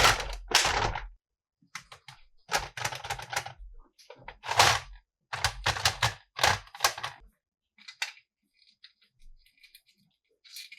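Hard plastic toy pieces and packaging being handled: quick runs of clicks, snaps and rustles, busiest in the first seven seconds, then a few light ticks.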